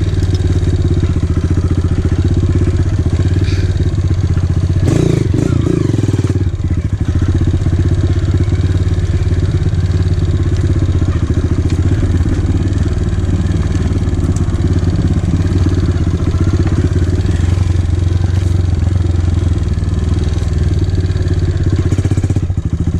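Dirt bike engine running steadily while the bike is ridden along a trail, heard from on the bike. A brief clatter comes about five seconds in.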